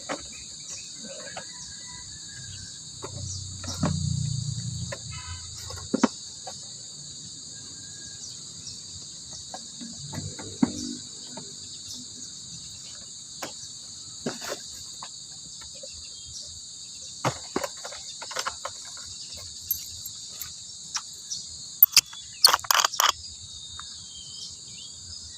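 Steady high-pitched insect chorus running throughout, with scattered sharp clicks and knocks. A short low rumble comes about four seconds in, and a cluster of louder clicks near the end.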